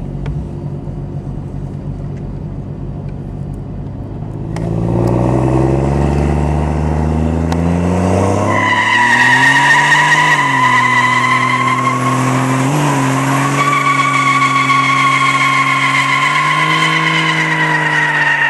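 Car engine running low and steady, then about four and a half seconds in accelerating hard, its pitch climbing and then holding high with two brief dips, under a high-pitched whine.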